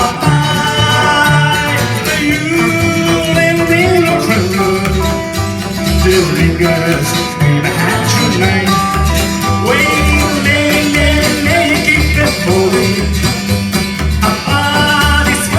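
Live band music played loud: electric guitar, bass and drums on a steady beat, with a singer's voice coming in and out.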